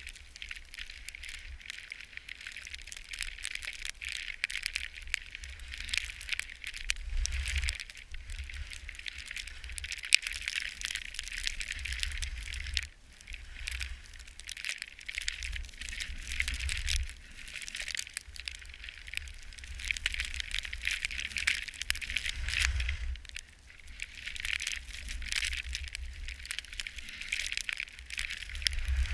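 Ski or snowboard edges scraping and hissing over snow on a descent, swelling and easing every few seconds as the rider turns, with wind rumbling on the microphone underneath.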